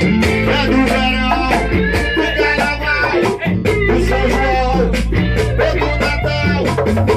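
A band playing a mostly instrumental passage, with a steady bass and drum beat under guitar and melody lines.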